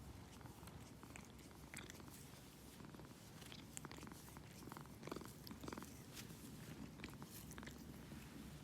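A domestic cat purring steadily and faintly, with scattered small clicks over it.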